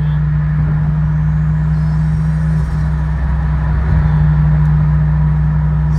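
A Toyota JZX110's 1JZ straight-six with a single top-mount turbo, driving at a steady cruise: a constant, loud low drone with an even engine hum, swelling slightly about four seconds in.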